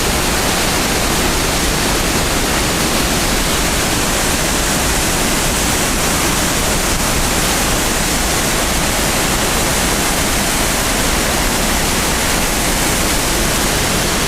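Waterfall's falling water making a loud, steady rushing noise, close to the microphone.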